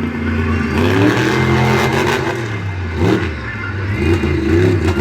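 Monster truck engine revving up and down several times, its pitch rising and falling in repeated surges.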